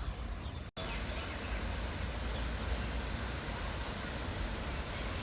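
Steady rushing noise of a park fountain's falling water, broken by a split-second dropout to silence about a second in.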